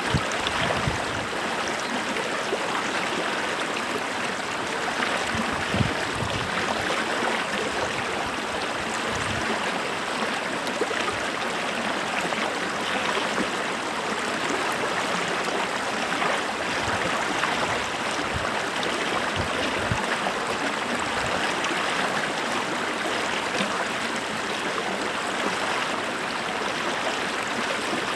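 Stream water flowing and gurgling over rocks in a steady rush, with a few brief low splashes.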